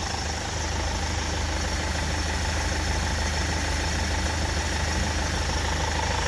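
Land Rover Freelander engine idling steadily during an engine carbon clean, a constant low hum with no change in speed.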